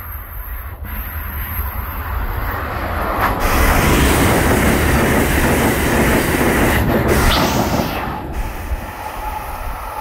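Amtrak Acela high-speed electric trainset passing a station platform at speed: the rush of wheels on rail and air builds, stays loud for about four seconds as the cars go by, then eases off.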